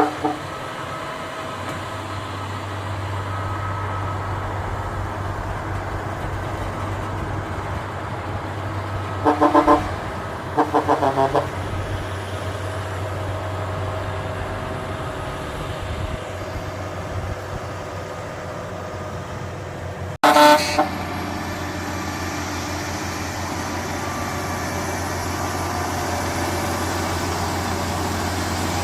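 Heavy truck's engine running steadily, with horn blasts over it: one toot about nine seconds in, then a quick run of short toots, and a louder blast about twenty seconds in.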